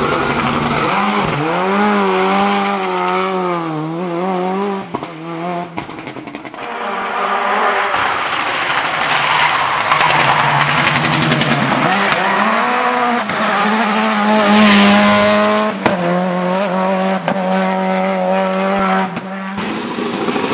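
Toyota Corolla Turbo rally car's engine revving hard, its pitch rising and falling repeatedly through gear changes and lifts, with brief tyre squeals.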